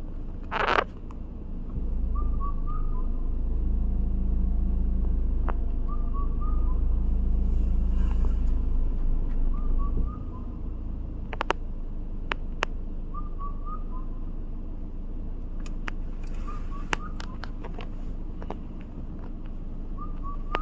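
A bird repeats a short whistled phrase of a few notes about every three to four seconds, over a low rumble that is loudest from about two to ten seconds in. A few sharp clicks come after the rumble.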